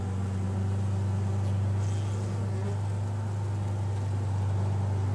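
Honeybees from an opened nuc hive humming steadily, a low even drone with no rise or break. It is the sound of a calm colony, which the beekeeper takes as the bees being content.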